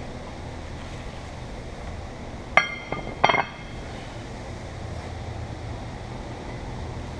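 Two sharp clinks of hard objects striking each other, about two-thirds of a second apart and each ringing briefly, over a steady low hum.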